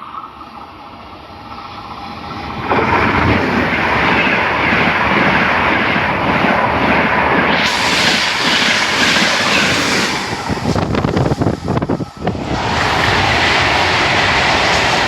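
A train passing close by at speed: the rushing noise swells in about three seconds in and stays loud, with a brief ragged dip near the end of the pass.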